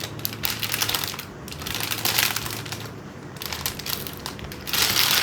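LEGO set packaging crinkling and crackling in bouts as it is handled and pulled at while being opened, growing louder near the end.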